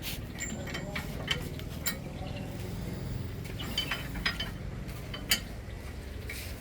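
Irregular metallic clinks and taps of hand tools and bolts on steel during bumper fitting, over a steady low hum; the sharpest click comes about five seconds in.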